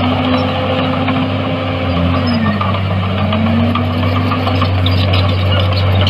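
Heavy diesel engine of earthmoving machinery running steadily with a deep hum. Its pitch sags about two and a half seconds in and then climbs back.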